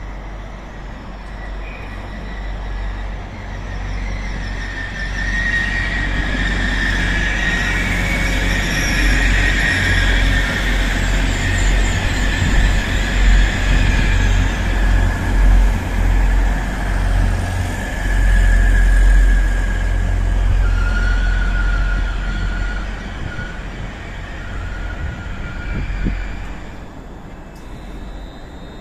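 A train running through the station: a heavy rumble builds, stays loud through the middle, then fades near the end. A high squealing tone, typical of wheel or brake squeal, runs over it for much of the passage and drops lower in pitch towards the end.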